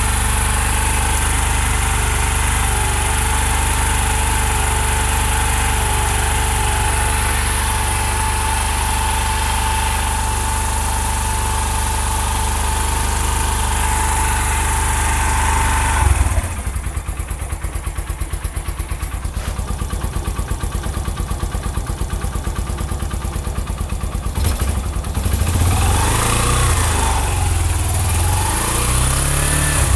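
Yamaha YBR 125's single-cylinder four-stroke engine idling fast with the choke on just after a cold start. About halfway through the idle suddenly drops to a quieter, slower pulsing beat, and near the end the engine speed rises and falls twice.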